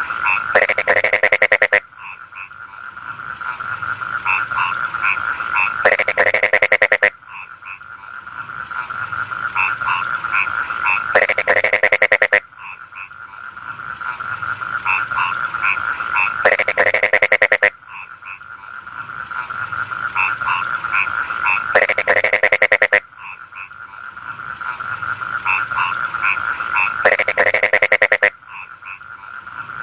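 Frogs calling in a rice field: a chorus of short repeated croaks over a steady trill, broken about every five seconds by a loud rasping croak of about a second that cuts off suddenly, the same few seconds repeating as a loop.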